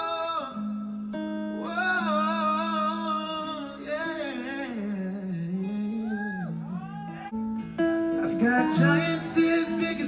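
Singing with acoustic guitar: a voice holds long, wavering notes over steady low guitar notes, and near the end the guitar picks up with a quicker run of plucked notes.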